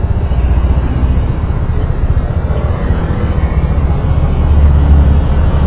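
Low, steady road and wind rumble from a moving vehicle, swelling briefly about four and a half seconds in.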